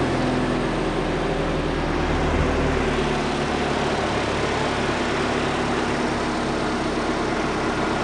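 Car engine idling steadily just after starting. Its low tone changes slightly about three seconds in.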